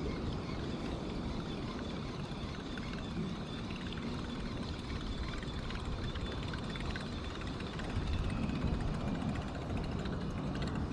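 Wind buffeting the microphone: a steady, unbroken low rumble.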